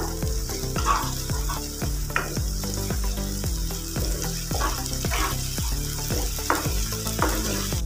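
Green mint paste sizzling as it fries in hot oil and ghee in a nonstick pan, with a steady high hiss, while a wooden spatula stirs it around the pan.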